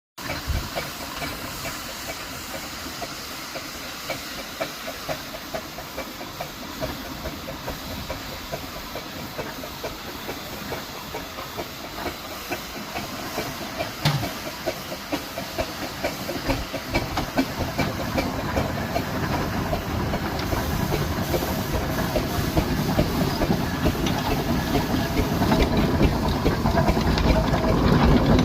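Steam traction engine running: a steady hiss of steam with a regular working beat, growing louder through the second half as it comes closer.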